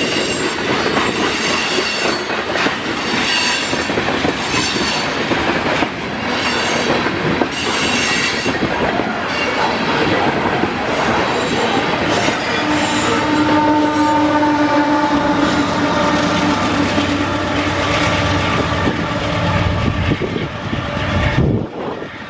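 Freight cars of a long manifest train rolling past, wheels clattering over the rails with metallic flange squeal. From about halfway on, steady squealing tones ride over the rumble, and the sound drops off suddenly near the end.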